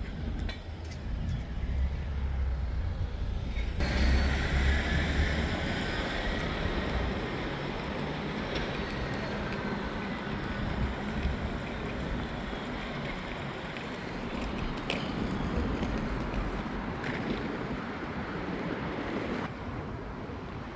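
Train running, heard from on board: a low rumble, then from about four seconds in a sudden louder rushing noise with faint squeals, steady through the rest.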